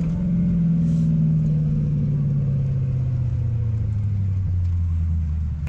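Corvette V8 engine heard from inside the cabin, its pitch falling steadily over several seconds from a rev as the car slows down.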